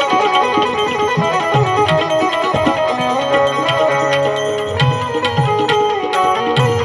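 Instrumental interlude of a Gujarati santvani bhajan: a melody instrument playing over a hand-drum beat, with no singing.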